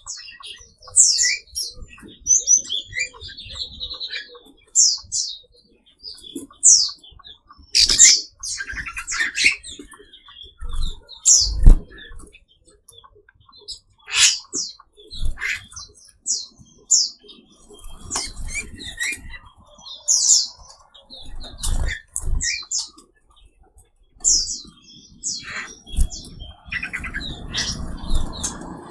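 Several songbirds of mixed species in an aviary chirping and calling: many short, sharp, high chirps overlapping from different birds, with a few brief low thumps and some rustling near the end.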